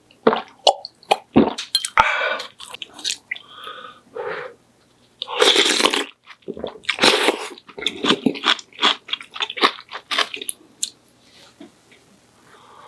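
A person chewing and biting food, with crunching and wet mouth clicks coming in irregular bursts.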